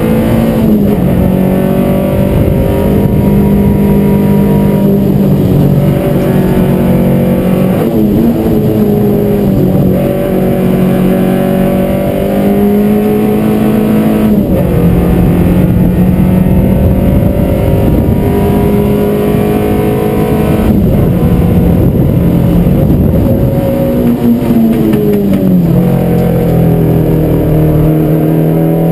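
Onboard sound of a Peugeot 205 Rallye's four-cylinder engine driven flat out in a hillclimb, heard inside the cabin: the engine note climbs under hard acceleration, then drops at gear changes and braking for corners, several times over.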